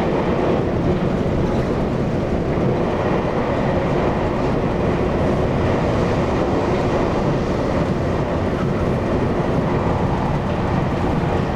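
Taiwan Railway EMU800 electric multiple unit running steadily between stations, heard from inside the passenger car: a continuous rumble of wheels on rail and car noise.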